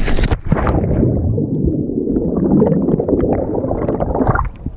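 Pool water gurgling and churning, heard muffled through a submerged microphone: the sound goes dull and bubbly about half a second in and opens up again near the end as it surfaces.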